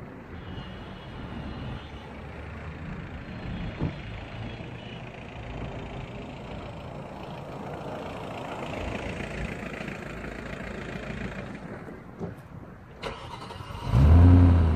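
Audi S4 B7's 4.2 V8 exhaust, run without resonators, at a steady moderate level for most of the time. About thirteen seconds in there is a sharp click, and just after, with the electric exhaust valve closed, a short, much louder burst of engine sound that fades quickly.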